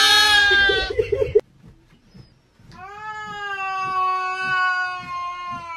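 A brief loud bleat at the start, then a pause, then a cat's long, steady yowl. The yowl starts about three seconds in and falls slightly in pitch.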